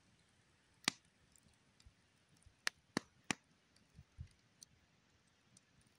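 Campfire crackling softly: scattered sharp snaps and pops at irregular moments, several close together around the middle, over a faint hiss.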